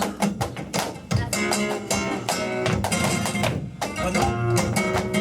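Flamenco guitar playing tangos: a few sharp strummed chords, then ringing plucked notes and short melodic runs.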